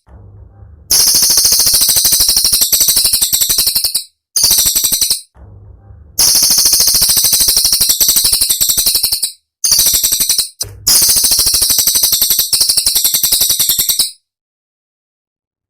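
A cililin songbird singing its sharp, dense 'tembakan' phrases: very high-pitched rapid trills of fast repeated notes in four or five bursts separated by short pauses, ending about fourteen seconds in.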